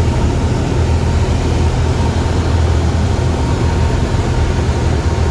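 Steady drone of a small propeller airplane's engine, loud and unchanging, with a deep hum underneath.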